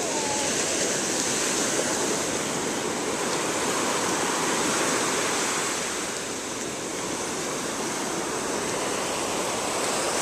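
Ocean surf washing onto the beach, a continuous rush of breaking waves that eases slightly about two-thirds of the way through.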